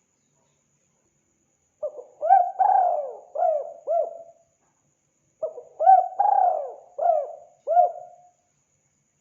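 Spotted dove (tekukur) cooing: two song phrases of several notes each, the first starting about two seconds in and the second about five and a half seconds in.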